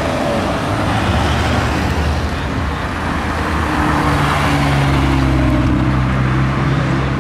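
Mercedes-AMG A45 with its turbocharged four-cylinder engine driving past at low speed. Its steady engine note grows louder about four seconds in as it turns by close up, over street traffic.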